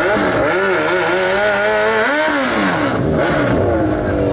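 Drag-racing motorcycle engine revving, its pitch rising and falling several times, climbing to a peak a little past two seconds in, then dropping away.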